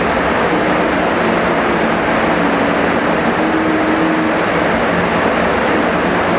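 Heavy rain falling steadily, a dense, even hiss with no let-up. A faint low tone wavers underneath.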